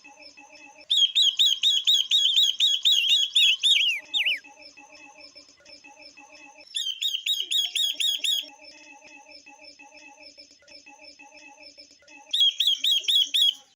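Calls of female silver-eared mesia and female red-billed leiothrix: three loud runs of rapid, repeated, sharply slurred chirps, with a quieter, lower, evenly repeated chatter between them. The recording cuts off suddenly at the end.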